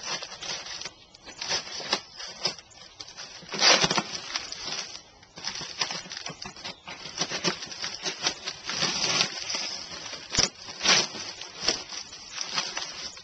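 Cardboard packaging being cut and torn open by hand: irregular ripping, scraping and rustling, with a sharp click about ten seconds in.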